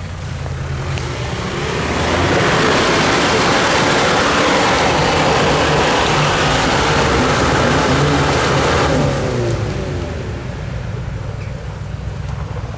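An off-road 4x4's engine running, then revved hard and held loud for about seven seconds from about two seconds in, before dropping back to a lower run.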